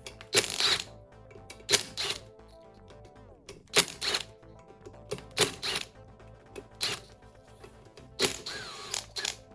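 Background music with a series of sharp, irregularly spaced metallic clacks from hand tools loosening the pump bolts on a 722.9 automatic transmission.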